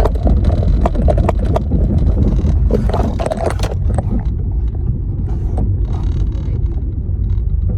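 Car driving along, a steady low road and engine rumble, with a run of knocks and rattles in the first half.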